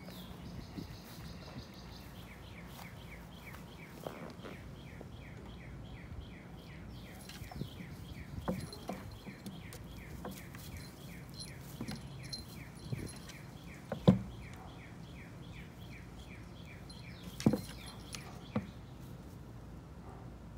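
A bird calling outside, a long, even series of short falling chirps, about three a second. A few sharp knocks and scuffles from the puppy and kitten playing against the push mower break in, the loudest about two-thirds of the way through.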